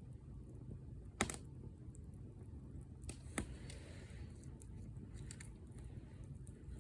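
Wood fire crackling: sharp pops of burning wood, the loudest about a second in and another about three and a half seconds in, with smaller ticks between, over a low steady rumble.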